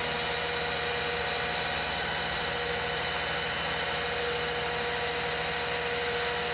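Heavy vehicle engine running steadily at a constant speed, with no change in pitch or loudness.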